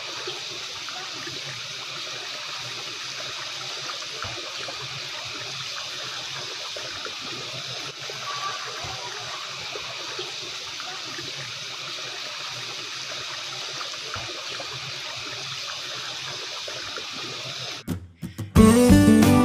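Steady running water, an even rushing and trickling. Acoustic guitar music comes in near the end.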